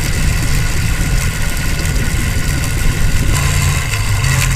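Hero Splendor's single-cylinder four-stroke engine running at a steady idle, with a rattling, clicking noise from the chain side. The mechanic traces the rattle to the engine (front) sprocket having been fitted the wrong way round during the engine rebuild.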